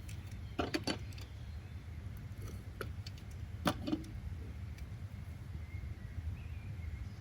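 Steady low rumble of background noise, with a few sharp clicks and knocks: a quick cluster about a second in and two more around four seconds in. Faint high chirps near the end.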